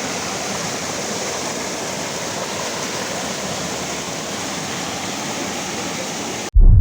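Waterfall rushing with a steady, even roar of falling water. Just before the end it cuts off abruptly to a much louder low rumble.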